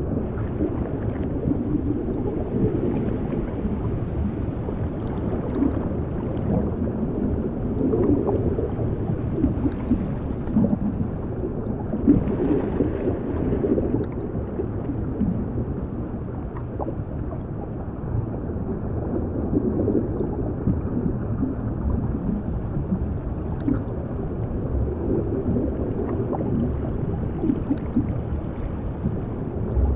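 Underwater ambience heard as if submerged: a muffled, steady low rumble with irregular bubbling and gurgling swells and a few faint clicks.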